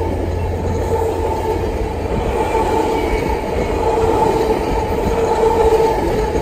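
Train passing: rumble of the rail cars with a steady high whine held throughout.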